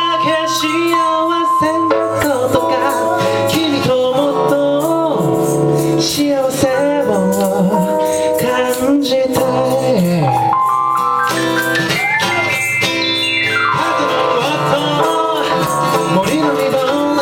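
Live ragtime-blues session music, with wavering melodic lines over light rhythmic ticks and a quick rising run of notes about ten seconds in.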